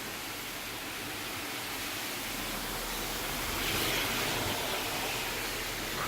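Steady hiss of rain falling during a thunderstorm, swelling briefly about four seconds in.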